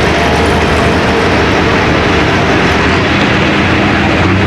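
Light pro stock pulling tractor's turbocharged diesel engine running loud and steady at high power during a pull.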